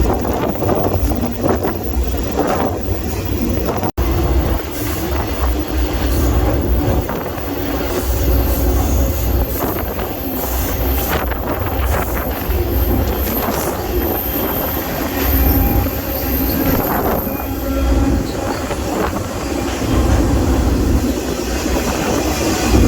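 Freight train rolling, heard from aboard: a steady low rumble of the cars, with a high, thin wheel squeal for several seconds in the middle.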